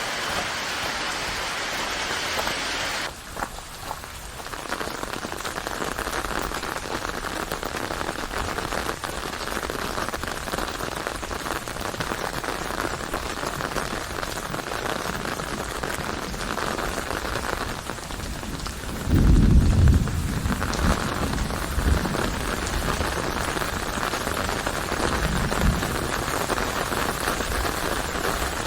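Rain falling steadily, an even hiss of water, which changes tone about three seconds in. A low rumble of thunder swells about two-thirds of the way through, with a shorter one a few seconds later.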